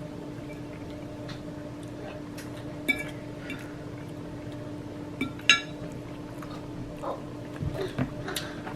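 Eating utensils clinking against dishes: scattered small clicks with two sharp, ringing clinks about three seconds and five and a half seconds in, over a steady low hum.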